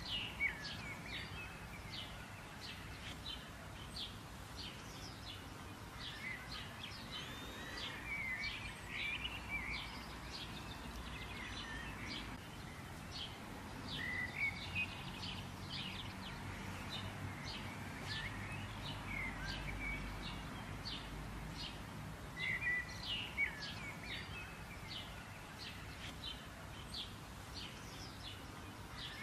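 Small birds chirping throughout, with rapid short calls and brief twittering phrases that swell in a few louder clusters, over a steady low outdoor background hum.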